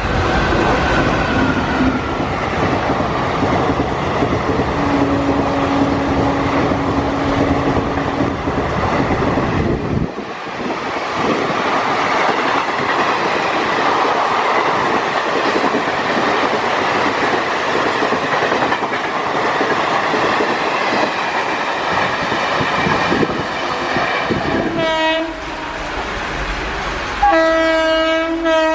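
Indian Railways trains running past, their wheels clattering over the track. Near the end a locomotive horn sounds a short blast, then a second, louder and longer one.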